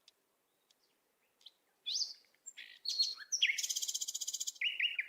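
Bird song: a few high chirps starting about two seconds in, then a fast rattling trill, then a run of short repeated whistled notes near the end.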